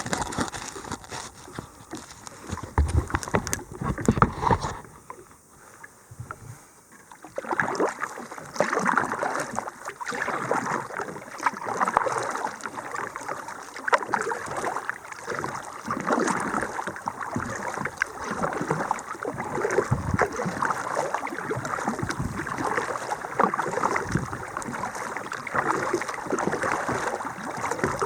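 Kayak being paddled across calm lake water: the paddle blades dip and splash in an uneven rhythm, with water running and dripping off them. It goes briefly quieter about five seconds in, then the strokes resume.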